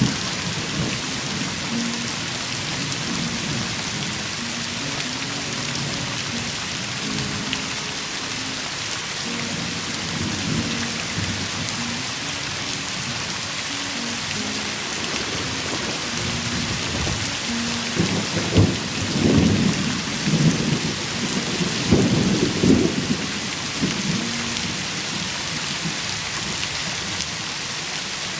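Heavy rain falling steadily, with thunder rumbling loudly for several seconds past the middle.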